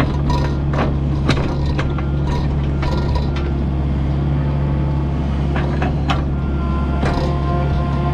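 Kubota U55-4 mini excavator's diesel engine running steadily under work, with irregular metallic clanks and knocks from the bucket and linkage.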